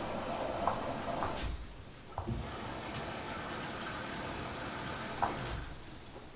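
A few separate clicks and knocks over steady background noise, from a washing machine's door or controls being handled.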